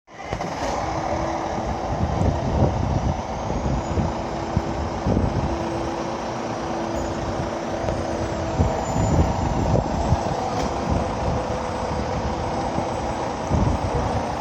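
Fire engine driving to a call: a steady low engine and road rumble, with a couple of faint steady tones over it.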